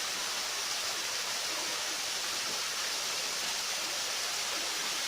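Steady, even rush of flowing river water, without breaks.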